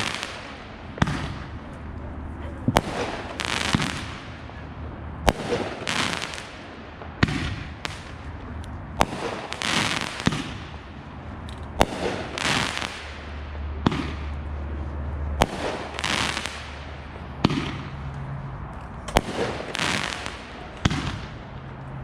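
Backyard consumer fireworks going off in steady succession: a sharp bang about every two seconds, each followed by about a second of hissing crackle.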